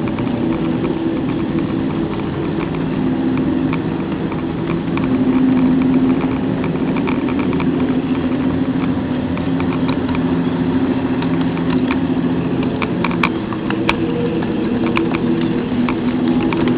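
HO scale model train running along the track, heard close up from a camera riding on it: a steady mechanical whir with a constant patter of small clicks from the wheels on the rails, and a few sharper clicks near the end.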